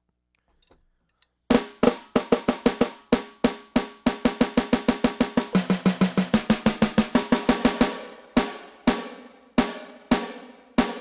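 NUX DM8 electronic drum kit played through its sound module: a fast fill of rapid snare and tom strokes starts about one and a half seconds in, then gives way to slower, spaced hits that ring out near the end.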